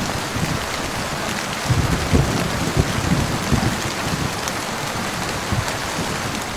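Steady heavy rain falling on a surface, with scattered short low thuds among the patter.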